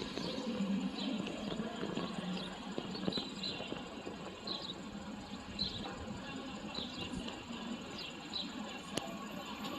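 Outdoor ambience: a steady background hiss and rumble with short, high bird chirps scattered through it, and one sharp click about nine seconds in.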